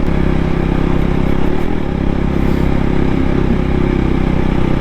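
KTM RC 200 motorcycle's single-cylinder engine running steadily while riding, with a brief change in engine pitch about a second and a half in.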